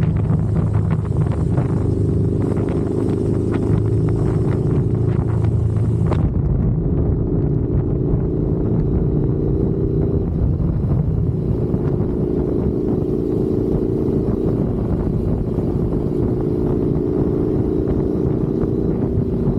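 Motorcycle engine running steadily while riding, with wind noise on the microphone. About six seconds in, the upper end of the sound drops away abruptly and the steady engine sound carries on.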